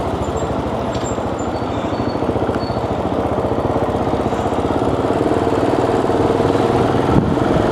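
Motorcycle engine running while riding, its firing pulses steady and growing a little louder toward the end, with a short click near the end.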